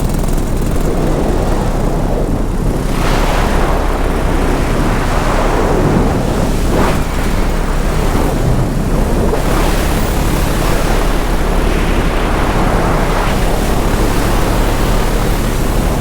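Nitro paramotor's engine and propeller running steadily in flight, with wind rushing over the microphone.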